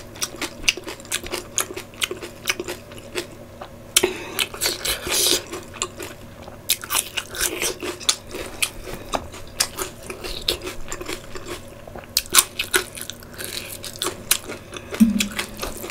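A person chewing and biting food eaten by hand, with many quick, irregular mouth clicks.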